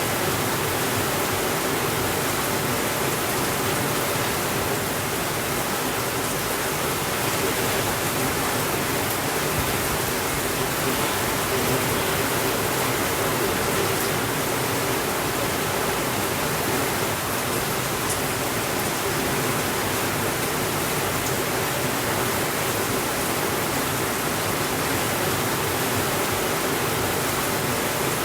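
Steady rainfall, an even hiss that holds at the same level throughout, with no thunder.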